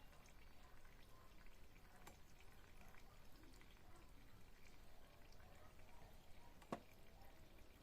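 Faint trickle of engine oil draining from the motorcycle's open drain hole into a pan, with a single sharp click about two-thirds of the way through.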